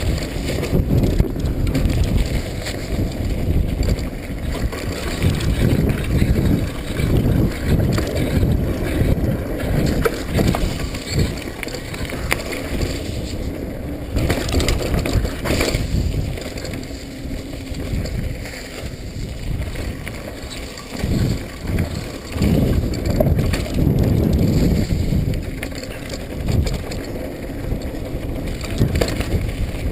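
Mountain bike ridden along a trail: wind buffets the microphone in a loud, uneven rumble, with short rattles and knocks from the bike over bumps.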